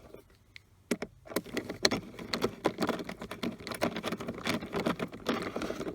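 Irregular clicks and light taps of a hand tool and metal parts as a bolt is fitted and tightened, starting about a second in after a near-silent moment.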